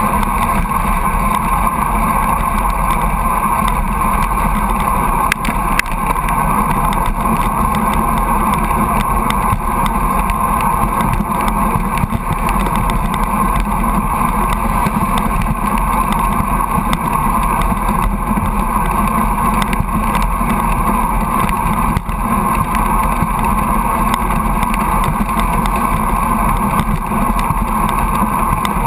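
Steady rush of wind, tyre and engine noise from a road bike riding in the slipstream close behind a truck at high speed, with the truck's low rumble running underneath.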